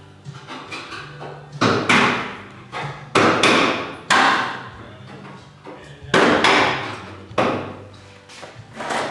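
Hammer blows on the car's sheet-metal body, about ten hard strikes at uneven intervals, several in quick pairs, each dying away briefly.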